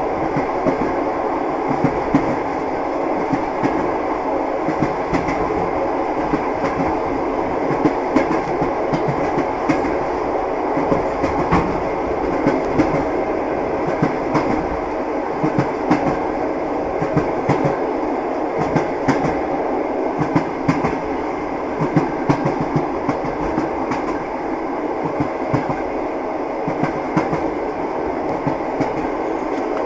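Train wheels running along the track: a steady rolling rumble with frequent, irregular sharp clacks of the wheels over rail joints.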